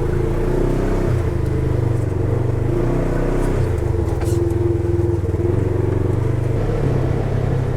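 Polaris side-by-side engine running at a steady, moderate speed, its pitch rising and falling slightly a few times as it is driven.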